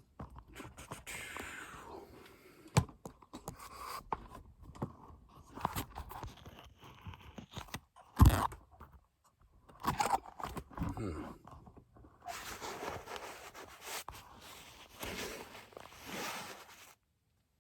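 Scraping, rustling and scattered knocks of someone climbing and clambering up into a tight space, with one loud thump about eight seconds in.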